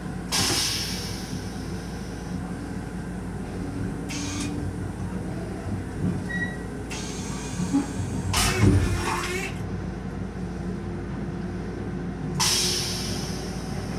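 Steady rumble of a moving Bombardier M7 electric railcar heard inside its small restroom, broken by several short bursts of hiss and a louder thump about two-thirds of the way through.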